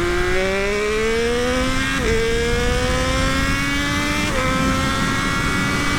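Triumph Daytona Moto2 765's three-cylinder engine, with its link pipe in place of the stock muffler, pulling hard under acceleration: the pitch climbs steadily and drops sharply twice, at about two seconds and about four seconds in, as it shifts up through the gears.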